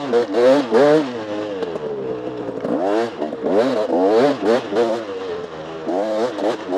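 Dirt bike engine revving hard and easing off again and again with the throttle, its pitch climbing and dropping every second or so.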